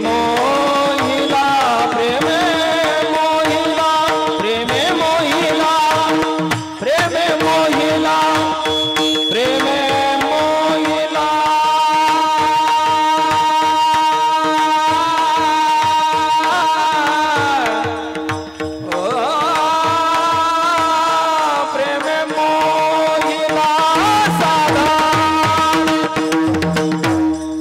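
Kirtan devotional music: a melodic line of long held and gliding notes over a steady drone, with tabla. It dips briefly a few times, most plainly about two-thirds of the way through.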